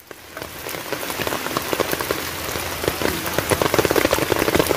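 Rain falling on open river water, a dense steady patter of drops hitting the surface; it fades in over the first second.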